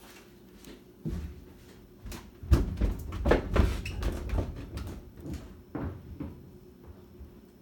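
A string of irregular knocks and thumps, about seven, the loudest bunched in the middle, over a faint steady hum.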